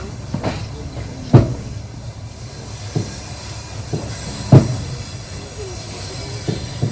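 Train running along the track: a steady rumble with the wheels knocking over rail joints, two heavy knocks about a second and a half in and three seconds later, and lighter clicks between.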